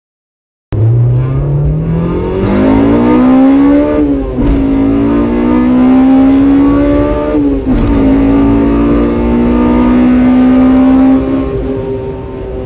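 Honda Civic Type R EK9's B16B four-cylinder VTEC engine, heard from inside the cabin, pulling hard through the gears. The revs start about a second in, climb steeply, drop at a shift about four seconds in, and climb again. A second shift comes just before eight seconds, the revs then hold high, and the engine eases off and fades near the end.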